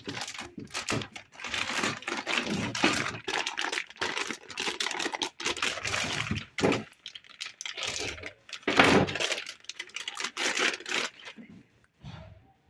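Packaging and small tools being handled during an unboxing: irregular crinkling, rustling and clicking, with a few short pauses.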